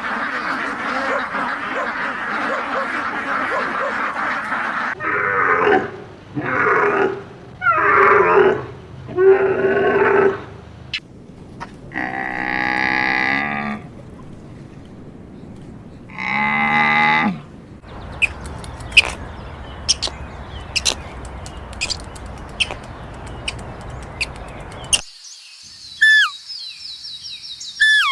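Farm animals calling, one after another: a dense chorus at first, then four short calls, two longer drawn-out calls, and scattered clicks with high chirps near the end.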